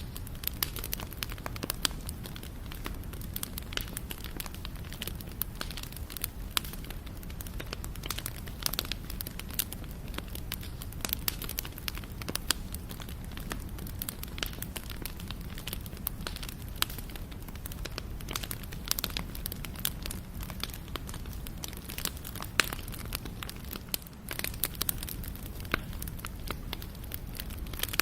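Wood fire burning with a steady low rumble and many sharp irregular crackles and pops.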